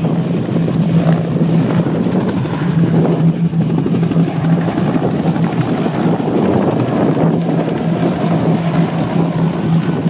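Bell AH-1 Cobra attack helicopters flying, a loud steady rotor and engine noise with a constant low hum.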